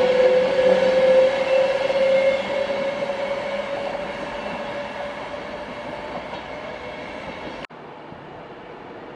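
Class 390 Pendolino electric train running away along the track, a steady whine over rail noise fading as it recedes. About three-quarters of the way in it cuts off suddenly to a quieter steady rumble.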